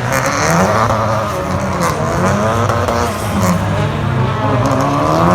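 A British Touring Car Championship race car's turbocharged 2.0-litre four-cylinder engine at full racing pace, its pitch rising and falling several times as the revs climb and drop.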